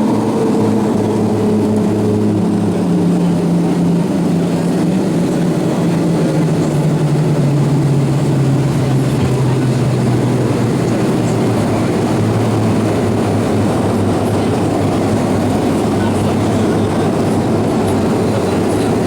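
Steady rushing cabin noise inside an Avro RJ-85 in flight, with the low hum of its four Honeywell LF507 turbofans. The hum falls steadily in pitch over the first half and then holds level, as the engines spool down when thrust is reduced.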